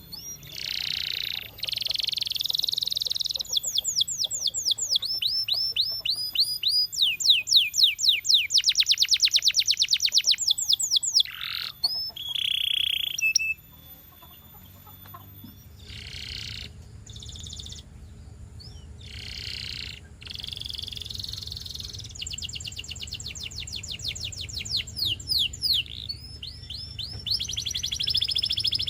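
Domestic canary singing: fast rolling trills of rapidly repeated high sweeping notes, with a short pause near the middle before the song resumes.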